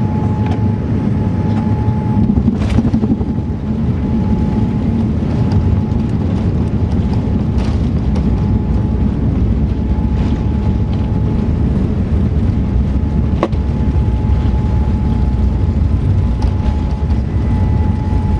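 Boeing 787-9 cabin noise: a steady engine and airflow rumble heard from inside the cabin, with a thin whine that fades in and out. A single sharp click about halfway through.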